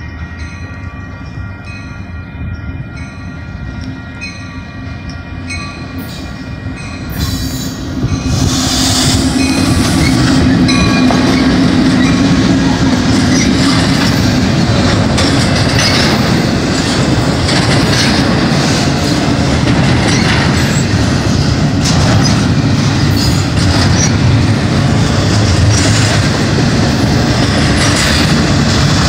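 Freight train led by two EMD SD70MAC diesel-electric locomotives approaching with a steady horn-like tone sounding in the distance. About eight seconds in the locomotives pass close by and the sound rises sharply. After that comes the steady rumble and clatter of double-stack container cars rolling past, with wheel squeal and knocks.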